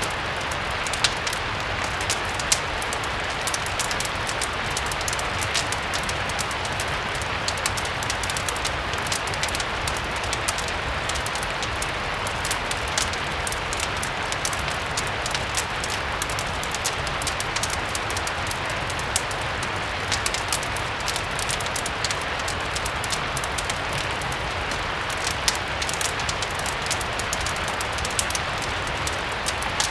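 Steady rain mixed with a crackling wood fire: an even hiss of rain with frequent small sharp pops and crackles scattered through it, over a low steady rumble.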